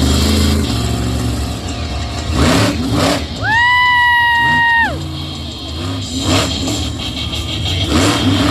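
Monster truck engine running and revving unevenly. A loud, high, steady tone rises in, holds for about a second and a half and drops away, twice.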